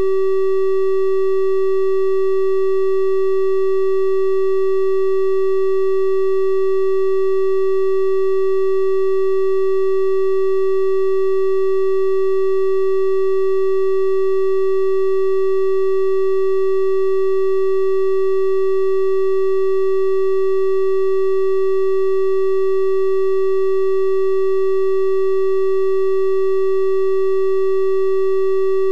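A steady 384 Hz triangle-wave test tone, a single pure-sounding pitch with soft overtones, held without change.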